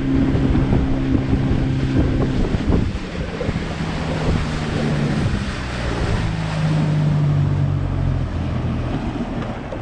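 Boat engine running under way, with water rush and wind buffeting the microphone. The engine's pitch drops about two and a half seconds in and comes up a little again later.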